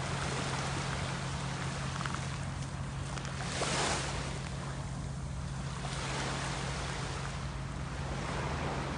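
Black Sea waves washing onto the shore, with one louder breaking wave about three and a half seconds in, over a steady low hum.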